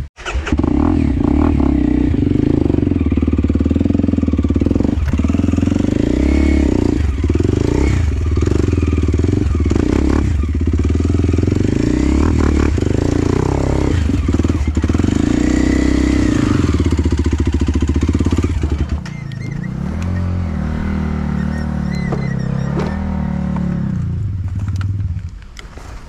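Enduro dirt bike engine revving up and down repeatedly under throttle, the pitch rising and falling every second or two. About nineteen seconds in the revs drop to a lower, quieter note that holds until near the end.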